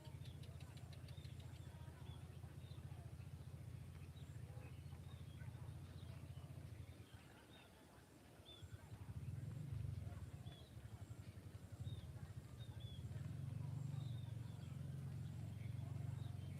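Small birds chirping faintly, short high calls repeating roughly once a second, over a low steady rumble that drops away briefly about seven seconds in and then swells again.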